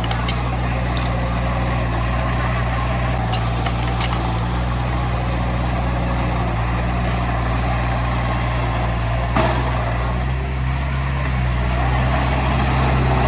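Heavy diesel engine of earthmoving machinery running steadily, with a single sharp knock a little over nine seconds in and the engine getting slightly louder near the end.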